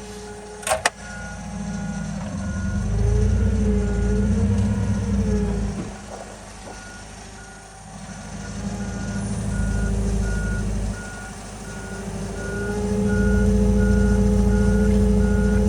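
Forklift engine running and revving up and down under load while lifting, with its reverse alarm beeping at a steady pace. A sharp knock about a second in.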